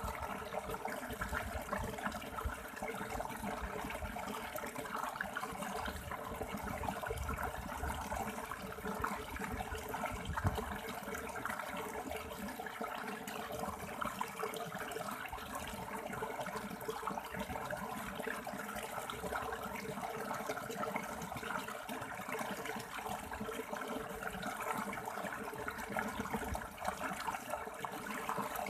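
River water flowing over stones, a steady rushing without a break.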